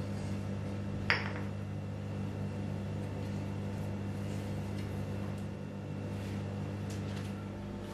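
A single sharp clink of glass or crockery about a second in, ringing briefly, over a steady low electrical hum.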